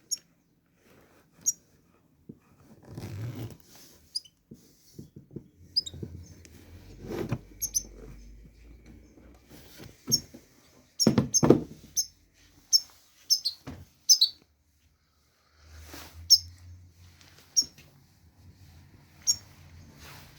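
European goldfinch giving short, scattered high chirps that dip quickly in pitch, with low knocks and rustling in between.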